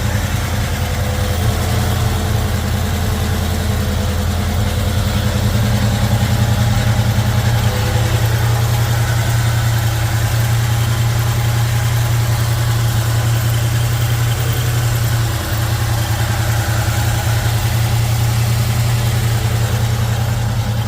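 Built 350 cubic-inch V8 with a mild cam idling steadily through a 2.5-inch dual exhaust.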